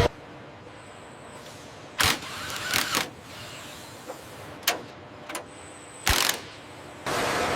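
A handful of short, sharp mechanical clicks and clunks, about five spread over several seconds, over a low quiet background; near the end a steady, even rushing noise starts abruptly.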